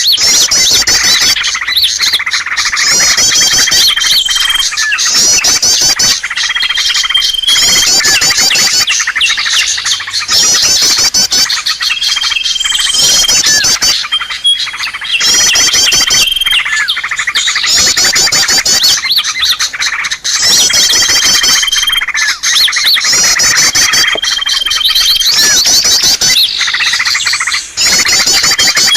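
Bird-lure (pikat) recording of small songbirds: a dense mix of quick chirps and twittering trills, with a short steady whistle recurring every few seconds.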